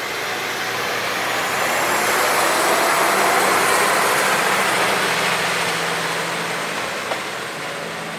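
Diesel railcar running past the platform, its engine and wheel noise swelling to a peak about halfway through and then fading away.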